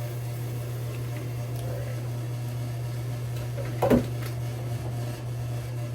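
Steady low hum, with one brief knock about four seconds in.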